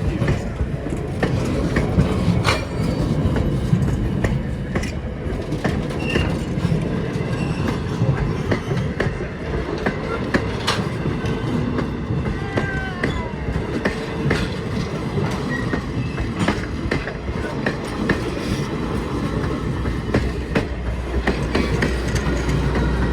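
Train rolling along the track: a steady rumble with the clickety-clack of wheels over rail joints.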